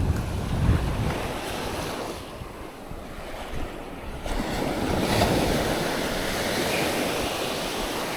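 Sea waves washing onto the shore, quieter for a moment and then surging up again about four seconds in, with wind buffeting the microphone.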